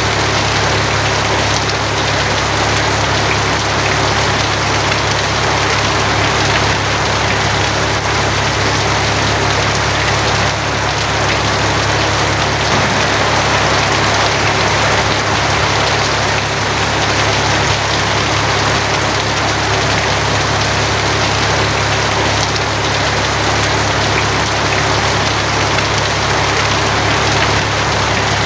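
Steady heavy rain drumming on a tin roof, a dense, even hiss, with a constant low hum beneath it and no thunderclap.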